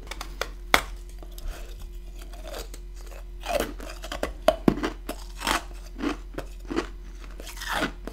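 Close-up crunching and chewing of chunky freezer frost ice built up from a humidifier, in repeated crisp crunches with a few heavier bites in the second half.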